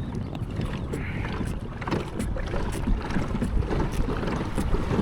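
Old Town 106 PDL pedal kayak under way: water swishing and splashing along the hull, with scattered small splashes and a low wind rumble on the microphone.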